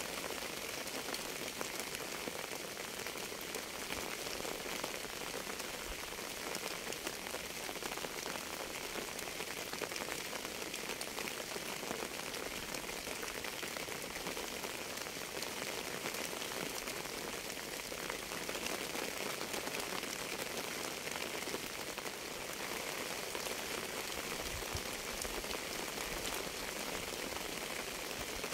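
Steady rain falling on a surface: a constant hiss thick with fine drop strikes, with no melody heard.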